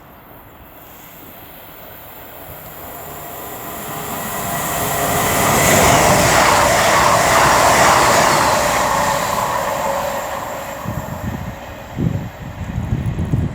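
Class 221 Super Voyager diesel-electric unit passing through at speed. Its engine and wheel noise swells to a loud rush about six seconds in and then fades, leaving uneven low rumbling thumps near the end.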